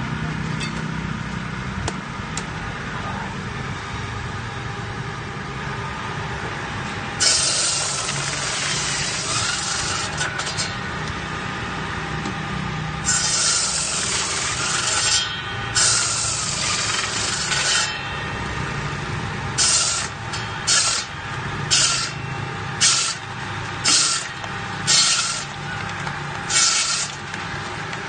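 Stone-cutting machine with a single horizontal saw blade running with a steady motor hum. From about seven seconds in, the blade cuts the stone in loud, high, noisy bursts, several seconds long at first and then short ones about once a second.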